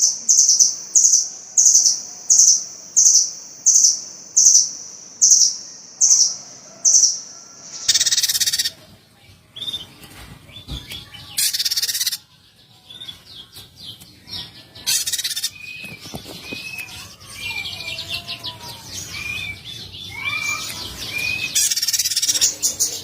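Small songbirds calling: a regular series of short, high, sharp notes, about one and a half a second, for the first eight seconds, then a few loud noisy bursts mixed with short curved whistled notes, and a quick run of high notes near the end.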